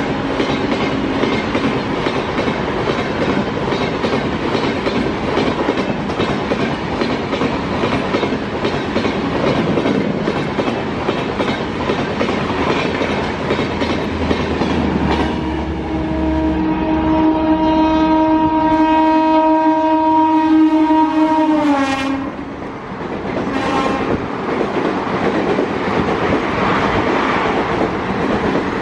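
Train running at speed, a steady rumble with rail clatter, heard from on board an Indian Railways express. About halfway through, a locomotive horn sounds one long blast of about seven seconds that drops in pitch as it ends.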